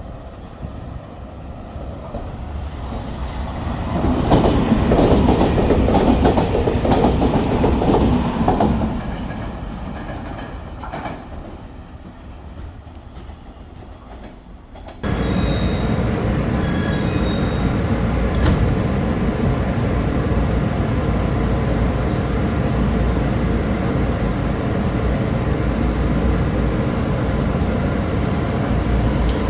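A train running past on the rails, growing loud and then fading away. About halfway through there is a sudden cut to another steady, loud train sound.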